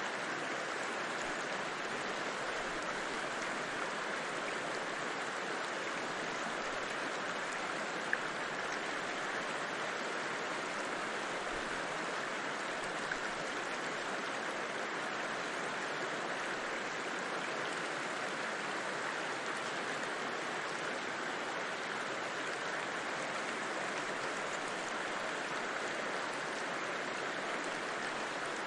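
A river flowing with a steady, even rush of water, with a single brief click about eight seconds in.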